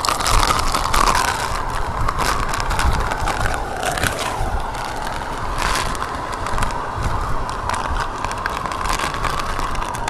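Strong typhoon wind buffeting the phone's microphone: a steady rushing rumble with crackling gusts throughout.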